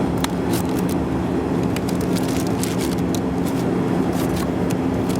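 Steady roar of a CRJ200 regional jet's cabin in flight, carrying a constant engine hum, with scattered short crinkles and clicks from card packs and wrappers being handled.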